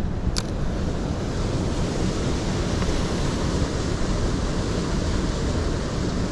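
Steady rush of a mountain stream flowing over rocks, mixed with wind buffeting the microphone as a low fluttering rumble. A single sharp tick about half a second in.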